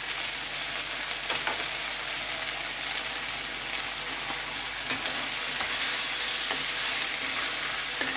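Stir-fried vegetables sizzling steadily in a wok, in a soy sauce and cornstarch sauce left to cook for a minute. A few light knocks sound over the sizzle, the clearest about five seconds in.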